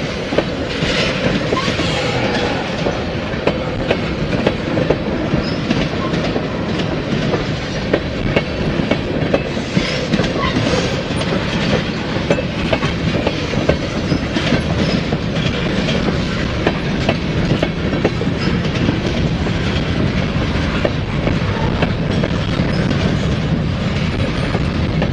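Freight cars of a Norfolk Southern manifest train rolling past close by: a steady rumble of steel wheels on rail, with frequent sharp clicks as the wheels pass over the rail joints.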